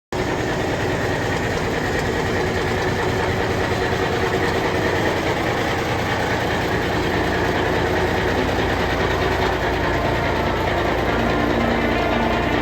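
Heavy military truck's diesel engine running steadily at idle, a low, even rumble: the M923A1 5-ton's Cummins inline-six diesel.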